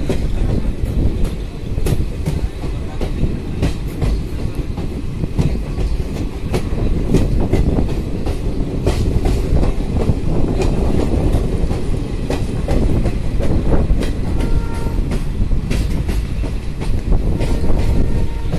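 Passenger train running, heard from an open coach doorway: a steady, loud rumble of wheels on rails, with irregular clacks as the wheels pass over rail joints.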